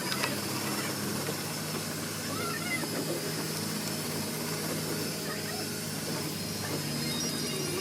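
An engine running steadily at an even speed, with a low hum and a thin, steady high-pitched whine over a hiss.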